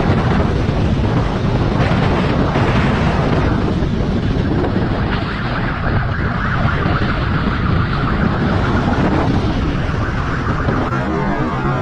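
Vehicle running at speed, with heavy wind noise rumbling on the microphone.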